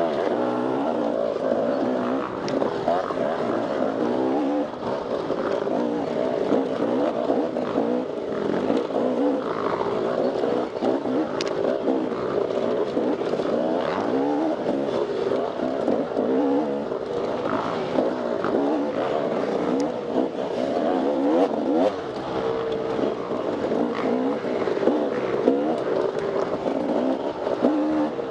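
Off-road motorcycle engine revving up and down constantly as the bike is ridden hard over a trail, with a few sharp clicks and knocks.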